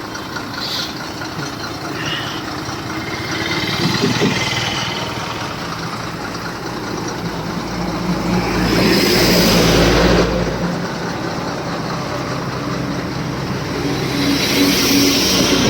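Heavy vehicle engine running steadily, with a louder swell of rushing noise and deep rumble for a couple of seconds in the middle that cuts off suddenly.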